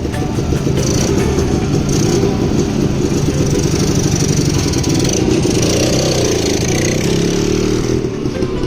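The restored 1968 Royal Enfield Crusader's 175cc two-stroke Villiers engine running, with a brief rise in revs about six seconds in.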